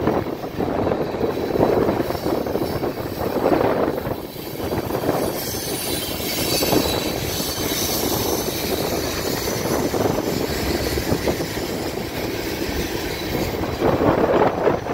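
Railroad tank cars of a freight train rolling past: a steady rumble of steel wheels on the rails, with louder surges every few seconds as the cars' wheel sets go by.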